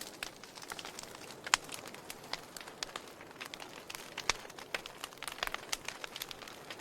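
Wood fire crackling, with irregular sharp pops over a soft steady hiss; two louder pops stand out, about a second and a half in and a little past four seconds.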